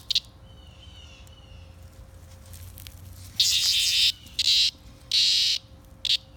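Cicada buzzing in short, harsh, abrupt bursts: a quiet stretch with faint chirps, then three loud bursts about a second apart and a brief one near the end.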